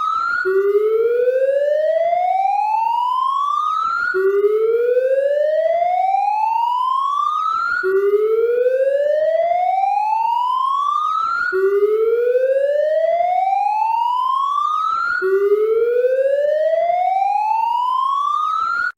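Police siren wailing: a tone rises slowly over about four seconds, drops back abruptly and rises again, over and over.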